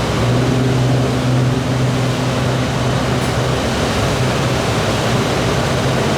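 Passenger ferry's engines running with a steady low drone under a rushing noise of water and hull, heard from inside the passenger cabin.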